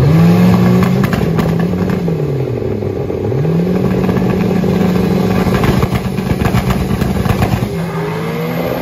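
Turbocharged drag cars' engines on the start line, revved up and held at steady high revs. The revs dip and climb back about two to three seconds in, with crackling from the exhaust toward the end. Near the end the note drops and a new rising note begins.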